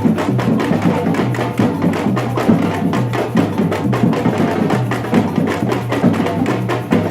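Batucada samba percussion group playing a steady, driving rhythm on drums, with dense strokes over a repeating low drum beat.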